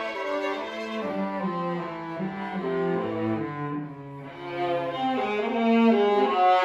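Bowed string instruments, cello prominent, playing several moving parts in held notes; the music thins and softens about four seconds in, then swells again.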